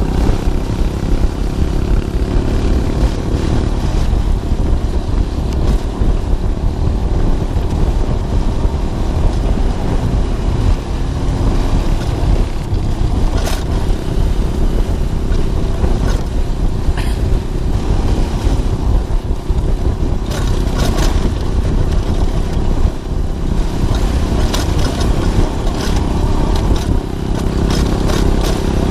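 Onboard sound of a Romet ADV 150's single-cylinder four-stroke engine running at a steady cruising speed, with wind and road noise and scattered short clicks and rattles in the second half.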